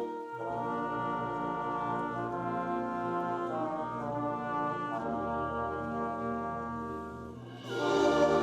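Student concert band playing a slow passage of held brass and woodwind chords that shift from one to the next. The sound thins out and softens, then the full band comes back in louder near the end.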